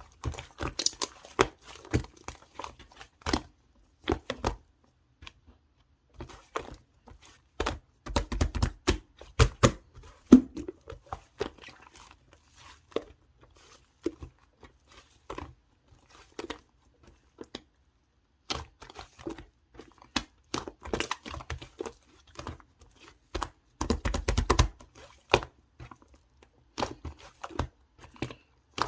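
Pink pearl slime worked by hand: irregular clicky, crackly pops and sticky tearing sounds as it is pressed, folded and pulled, with a brief pause around two-thirds in.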